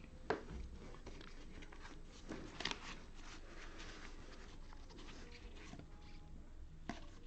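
Trading cards being handled and flipped through, with faint rustling and a few light clicks.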